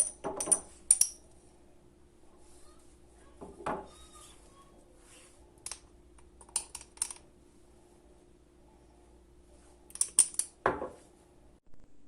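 Light clinks, taps and knocks of dishes and utensils in a few short clusters, over a steady low hum that cuts off near the end.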